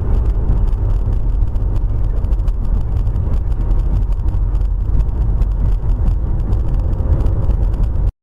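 Steady low rumble of a moving vehicle's engine and road noise, cutting off abruptly near the end.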